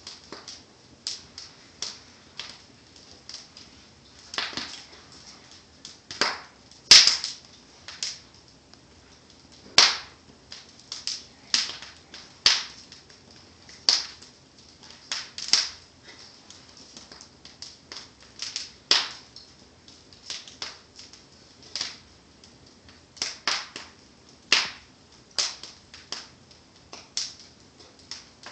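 Wood fire in a fireplace crackling: burning logs give off irregular sharp pops and snaps, about one a second, over a faint steady hiss. The loudest pop comes about seven seconds in.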